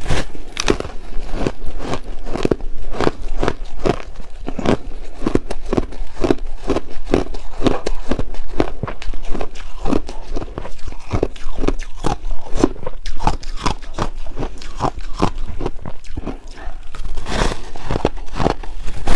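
Purple ice chunks being bitten and chewed: a fast, irregular run of hard crunches, several a second, with a short lull about three-quarters of the way through.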